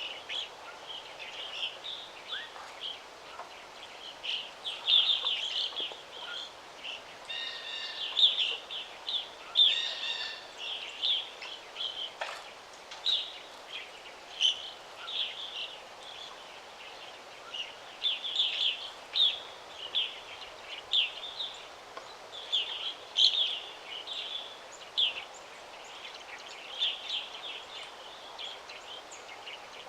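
Songbirds chirping, many short high calls overlapping in quick succession, over a faint steady background hiss.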